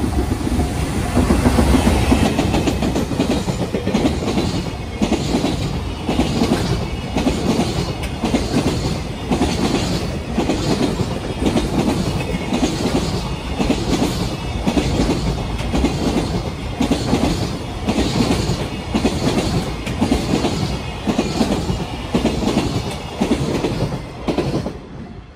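Freight train hauled by an EF210 electric locomotive passing close by at speed, loudest as the locomotive goes past at the start. Then a long run of container wagons follows, their wheels clacking over rail joints in a steady repeating rhythm. The sound drops away near the end as the last wagon passes.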